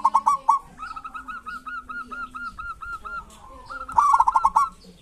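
Local zebra doves (perkutut) calling: a loud, rapid rattling burst at the start and again about four seconds in, with a run of quick, evenly repeated notes in between.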